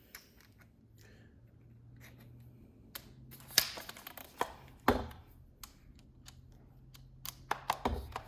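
Hands handling tools and the metal heater: a scattered series of clicks and knocks, with two heavier thuds about five and eight seconds in, over a faint low hum.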